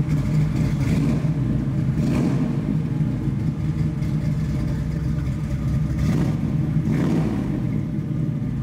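1967 Chevrolet Camaro SS's V8 engine idling steadily through its exhaust, with about four short throttle blips, two in the first couple of seconds and two more a little past the middle.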